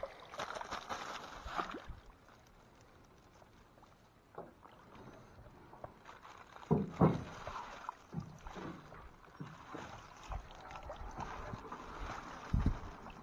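Canoe being paddled: irregular paddle strokes and water splashing, with two louder thumps, one about seven seconds in and one near the end.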